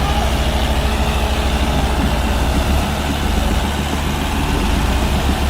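Heavy diesel tractor engines running steadily with a fast low throb, as in a tractor tug of war.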